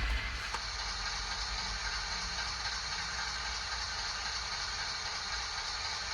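Sound-decoder recording of a Class 60 diesel locomotive played through an N gauge model's small built-in speaker, running steadily, with some mechanical rattle.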